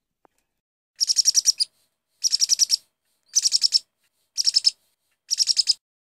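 A bird chirping in five short, high, rapid trills, each about half a second long and roughly a second apart.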